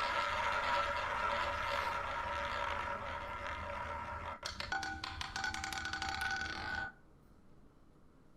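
Roulette wheel spin: the ball whirs around the wheel's track, then clatters in a quick run of clicks across the frets and pockets about four and a half seconds in, before the sound cuts off suddenly. Steady tones of game music run alongside.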